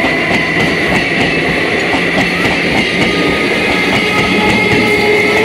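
Electric multiple unit (EMU) local train running past along the platform: a steady rumble of wheels on rail with a clatter of clicks over the joints and a steady high whine.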